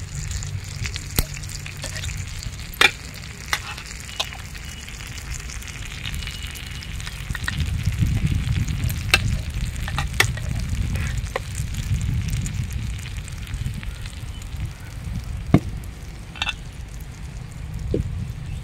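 Mutton liver masala frying on an iron tawa over a wood fire as cooked rice is tipped onto it, with a steady sizzle. Scattered sharp clicks of metal on the tawa.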